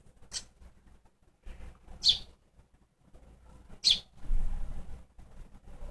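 Baby bird chirping: three short, high chirps about two seconds apart, with a low bump of handling noise just after the last one.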